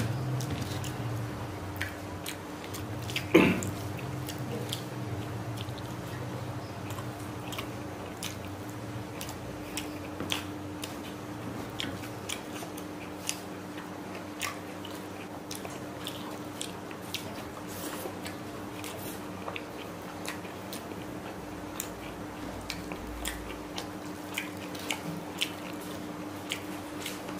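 A man chewing fried rice and chicken curry eaten by hand, with many small wet mouth clicks and fingers working the food on a paper plate. A single louder knock comes about three and a half seconds in, over a faint steady hum.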